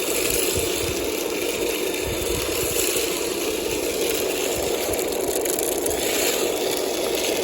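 A radio-controlled model machine's motor running steadily, a constant mechanical buzz with a rattle and uneven low thuds under it.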